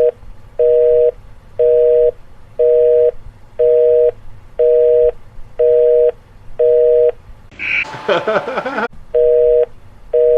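Telephone busy signal: a steady two-tone beep, half a second on and half a second off, repeating once a second. Near 8 s it is broken by a short, noisy, garbled burst before the beeping resumes.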